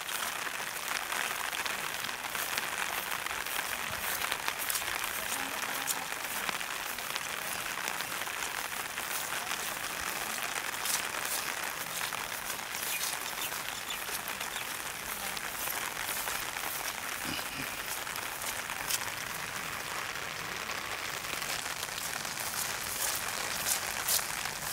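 Steady rain falling: a dense, even hiss with many sharp individual drops ticking close by.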